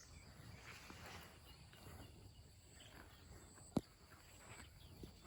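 Faint rural evening ambience with insects keeping up a steady high-pitched trill, and one sharp click a little over two-thirds of the way through.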